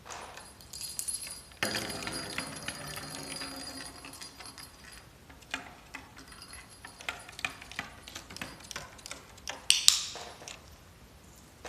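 Small metal objects jingling and clinking, with many light clicks and taps. From about two seconds in, a high ringing tone holds for about three seconds, and a sharp, loud clink comes near the end.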